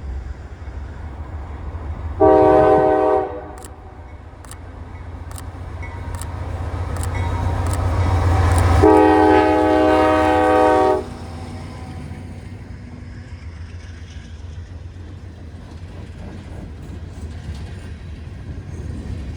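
CSX freight locomotive sounding its air horn at a road crossing, one short blast and then a longer one of about two seconds. The diesel rumble swells as the locomotive approaches and passes, then the steady rumble of the train's cars rolling by follows.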